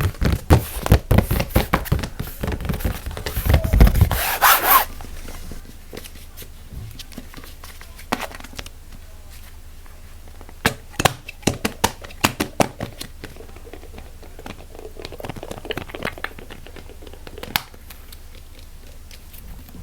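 Close-miked ASMR trigger sounds: rapid tapping and handling of objects, with a loud crinkly rustle about four seconds in, then slower, scattered taps and knocks.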